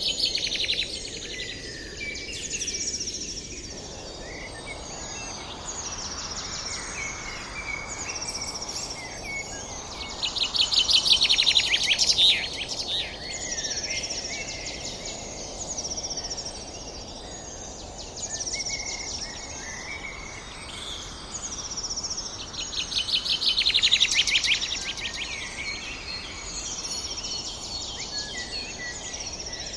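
Many birds chirping and calling over a steady background hiss, with loud buzzing trills at the start, about eleven seconds in and again about twenty-four seconds in.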